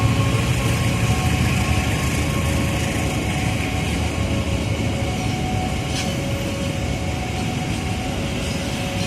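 Freight train of ballast-stone wagons rolling past, a steady rumble of wheels on rail that slowly eases, with a short click about six seconds in.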